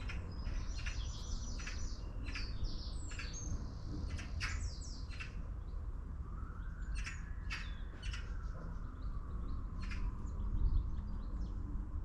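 Small birds chirping and singing, with a quick run of repeated high notes in the first couple of seconds and scattered calls after, over a steady low rumble.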